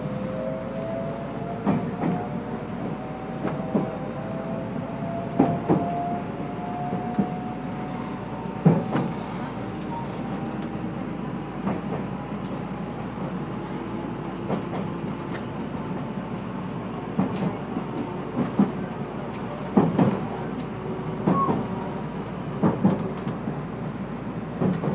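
JR West 223 series 5000 electric train running, heard inside the car. The motor whine climbs slowly in pitch as the train gathers speed, and the wheels clack over rail joints every second or few.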